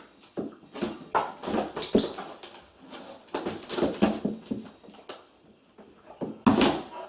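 A dog moving about a cardboard box, making irregular scuffs, knocks and rustles.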